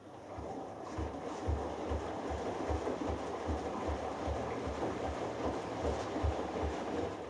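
Hoover Dynamic Next DXA610IW3 front-loading washing machine drum turning in the wash of a delicates cycle: water and laundry sloshing, with low thumps about two or three times a second. The tumble starts and then stops after about seven seconds, the short bursts of drum rotation a wash cycle makes between pauses.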